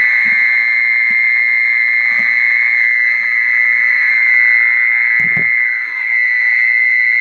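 Mole cricket song, a continuous high trill, played from a loudspeaker as a lure for mole crickets. A short low sound like a brief voice comes about five seconds in.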